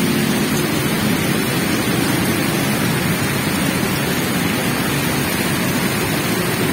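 Heavy rain falling on a wet road, a steady dense hiss.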